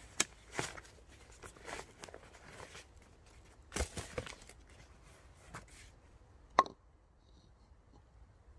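Irregular crunches and knocks of someone moving about and handling things, like footsteps and rustling. One sharp ringing clink about six and a half seconds in is the loudest sound, and it is quieter after it.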